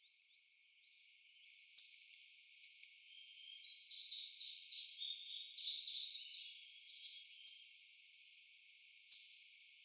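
Three sharp, loud chip notes from a female hooded warbler, spaced a few seconds apart. Between them, an indigo bunting sings a run of quick high phrases, a few seconds long.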